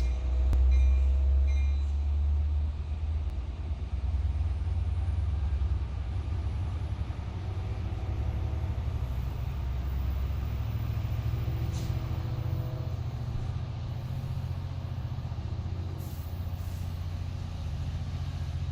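Heavy diesel engine running with a deep, steady rumble, loudest in the first couple of seconds.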